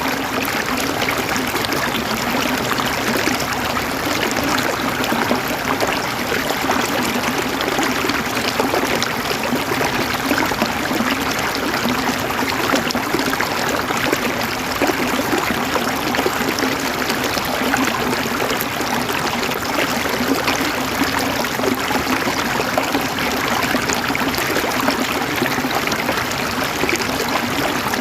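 Flowing water trickling and gurgling steadily, with no change in level.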